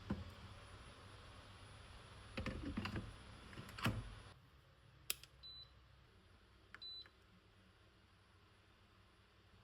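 A few knocks and a clatter of handling, then two short, high electronic beeps about a second and a half apart, as buttons are pressed on a kitchen appliance's control panel.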